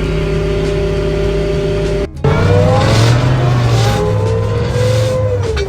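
Truck's 6.6-litre LML Duramax diesel engine running steadily, then after an abrupt break about two seconds in, revving with its pitch rising and falling.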